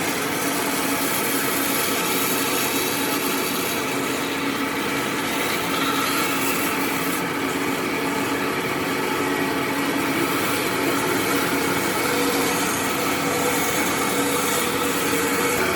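Electric power tool running steadily while cutting or grinding into wood, its motor hum holding a constant pitch under the noise of the wood being worked.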